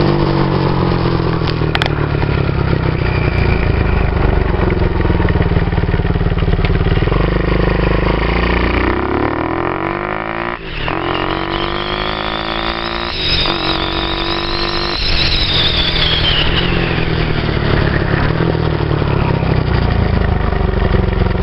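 Kawasaki KLX110 dirt bike's small single-cylinder four-stroke engine running under throttle. About ten seconds in it accelerates hard, its pitch climbing through the gears with brief breaks at the shifts, then easing back down.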